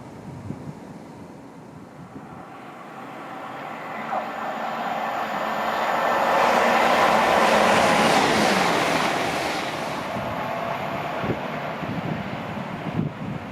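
A train passing by: its noise, with a few steady tones in it, swells over several seconds to a peak near the middle and then fades away.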